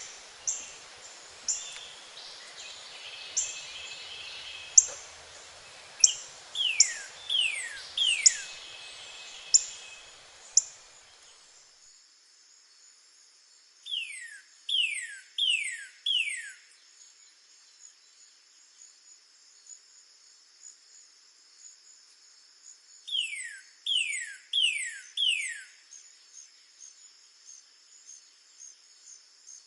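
Northern cardinal singing phrases of three to five loud, clear down-slurred whistles, each phrase a couple of seconds long, repeated three times. Short sharp high chips come in the first part. A steady high insect trill runs behind from about a third of the way in, after a faint background hiss cuts off.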